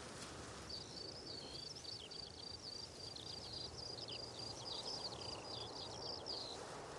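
A small songbird singing a long, rapid run of high chirping notes that starts about a second in and stops shortly before the end, over faint steady outdoor background noise.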